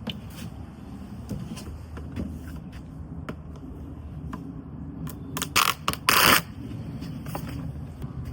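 Quiet handling and rustling, with two short, loud rasping scrapes a little past halfway, the second one longer.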